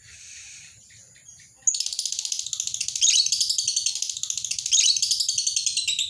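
Lovebird ngekek: a long, rapid, high-pitched chattering trill that breaks in suddenly after a second or two of quiet chirps and then runs on unbroken.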